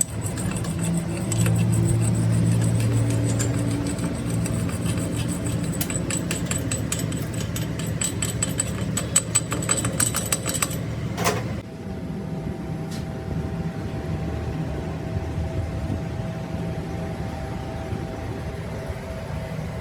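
Workshop machinery running steadily with a low hum. Rapid crackling clicks run through the first half, then stop about eleven seconds in after a sharp sweep, leaving a steadier hum with a thin whine.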